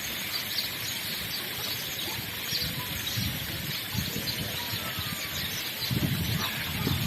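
Small birds chirping faintly over a steady outdoor hiss, with some low rumbling about six seconds in.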